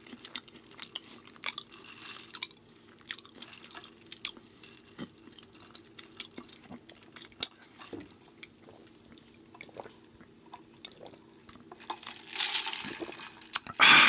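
Close-miked chewing of a mouthful of Impossible Burger: many small wet mouth clicks and squelches at an uneven pace, with a louder rush of noise near the end.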